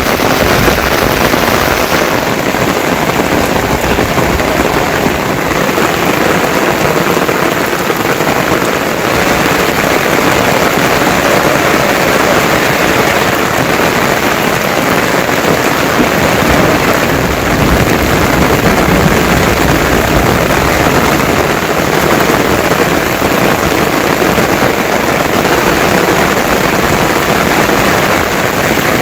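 Heavy monsoon rain falling steadily, a dense even hiss of rain on surfaces.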